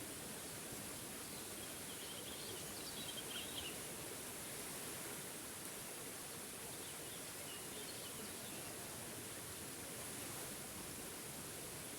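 Waterfall's steady rush of water, with a bird chirping in two short spells, a couple of seconds in and again past the middle.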